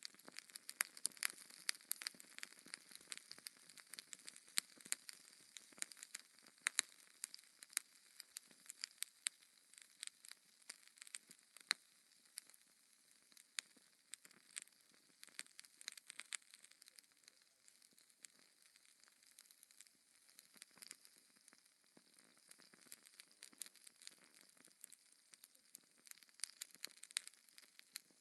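Wood fire in a fireplace crackling and popping, with sharp snaps scattered irregularly over a soft hiss; the pops are thickest in the first half and thin out for a while past the middle.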